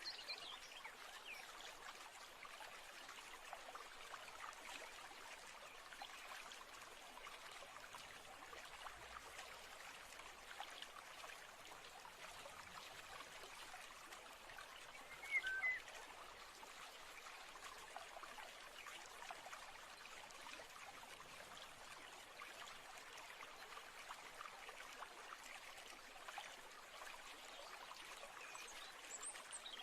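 Faint, steady trickling of a stream, with one short bird chirp about halfway through.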